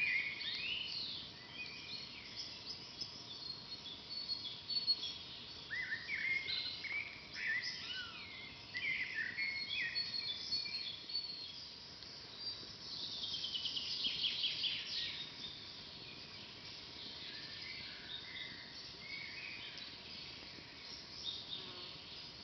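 Songbirds singing and chirping in a forest, with many short whistled calls and a rapid run of falling notes about halfway through, over a faint steady background hiss.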